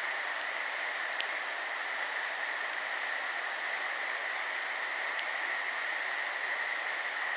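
Steady rushing of flowing stream water, with a few faint sharp ticks.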